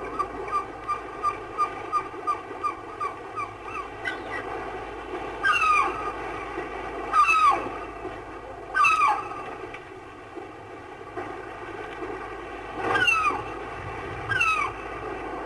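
Gulls calling over steady surf: a quick series of short yelping notes, about three a second, for the first few seconds, then loud cries that fall in pitch, repeated every second or two.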